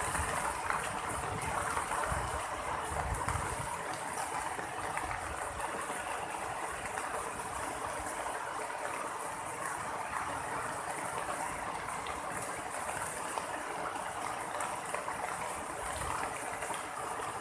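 Rain falling steadily, an even hiss with no thunderclap.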